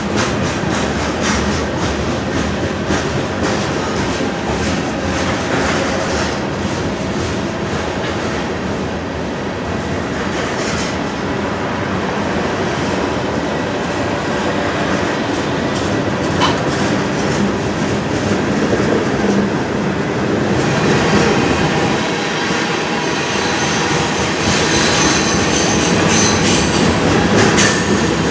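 Loaded sand train rolling past: freight car wheels clacking steadily over the rail. High-pitched wheel squeal joins in during the last several seconds.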